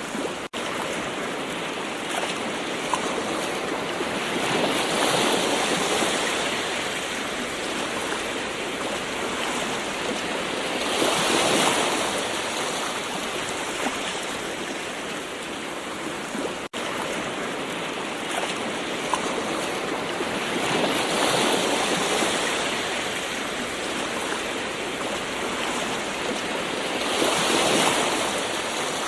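Gentle ocean waves: a steady wash of surf that swells louder four times as waves break and run in, with two momentary dropouts.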